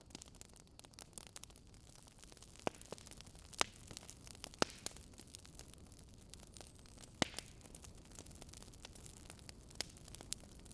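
Crackling wood fire: irregular sharp pops and crackles over a steady low hiss.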